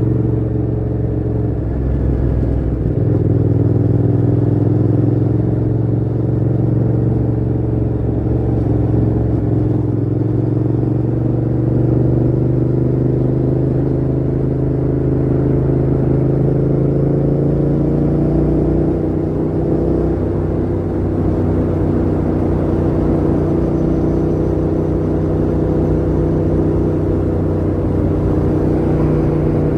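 Yamaha MT-07's parallel-twin engine running through a Mivv GP Pro full exhaust with the dB killer fitted, held at steady riding revs. The engine pitch drifts slowly and rises gently about two-thirds of the way through.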